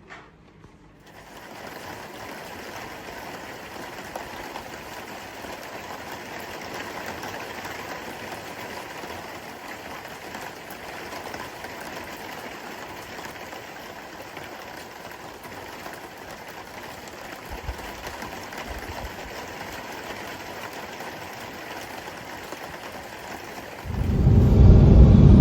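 Steady, even rushing noise that starts about a second in. Near the end a much louder low rumble cuts in.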